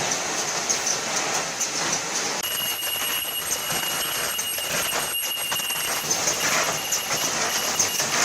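Automatic PP mesh bag cutting and sewing machine running: a steady mechanical clatter with rapid repeated clicks. A thin high whine joins it from about two and a half seconds in and stops about six seconds in.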